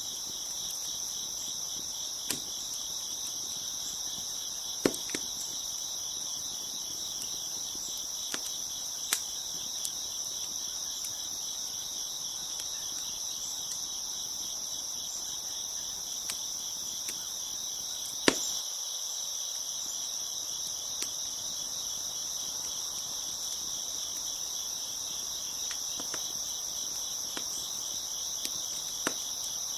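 Crickets chirping in a steady, high-pitched chorus, with scattered sharp pops and snaps from a crackling wood fire every few seconds. The loudest pop comes a little past the middle.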